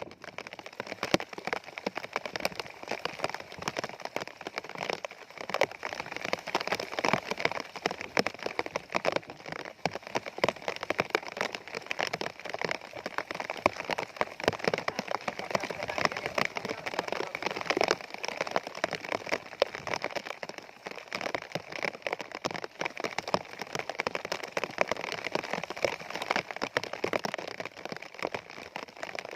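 Steady rain, a dense irregular run of small drop impacts hitting surfaces close by.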